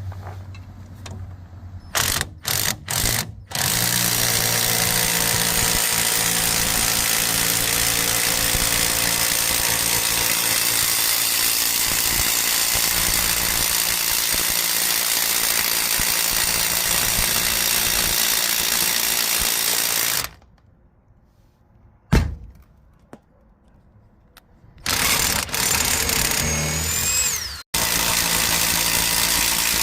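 A power tool, likely a drill turning the scissor jack's screw, is started in a few short bursts and then runs steadily for a long stretch before stopping. In the quiet that follows there is a single sharp knock, and then the tool runs again with a falling whine near the end.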